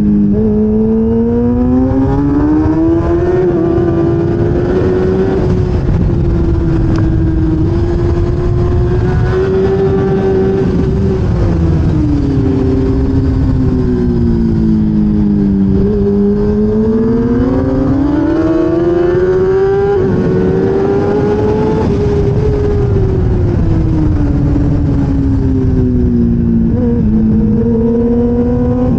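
1000cc racing motorcycle engine, heard onboard at race pace. Its pitch climbs hard under acceleration, holds at high revs, then falls away under braking and downshifts, twice over, before climbing again near the end. A dense low rumble runs underneath.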